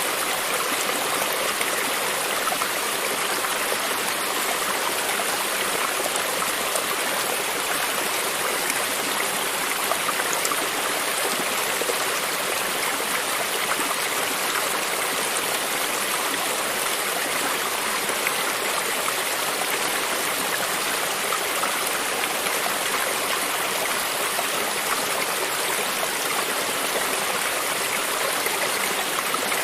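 Creek water running over rocks: a steady, even rush with fine gurgling and trickling.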